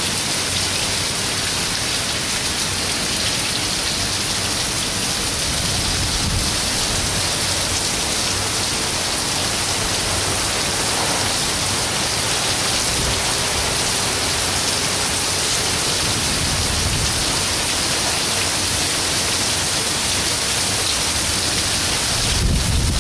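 Heavy thunderstorm rain pouring steadily onto pavement and grass, an even, unbroken hiss. A low rumble starts near the end.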